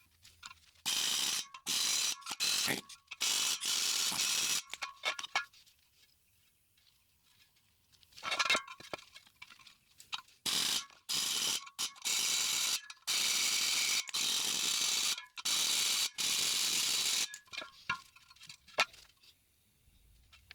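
Pneumatic air hammer fired in a series of short bursts, a second or two each, peening rivets down flat to fasten hubcap clips to a steel wheel rim. There is a pause of a couple of seconds partway through.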